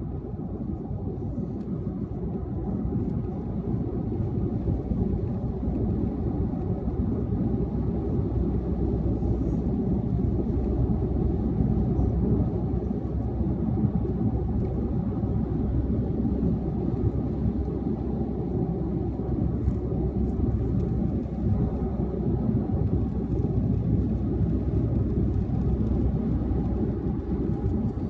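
Car driving at highway speed: a steady low rumble of tyre, road and engine noise, which grows a little louder over the first few seconds.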